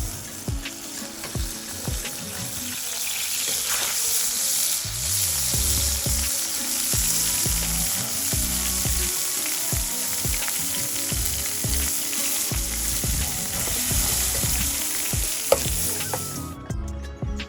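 Mullet sizzling loudly as it cooks in hot fat, a steady frying hiss that cuts off suddenly near the end.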